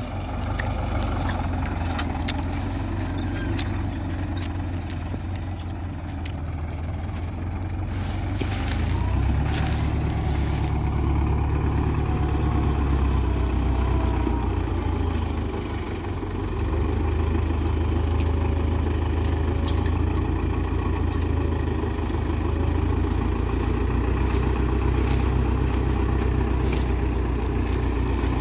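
Tractor diesel engine running under load, with a deep steady sound. It grows louder about a third of the way in, eases off briefly past the middle and then pulls hard again.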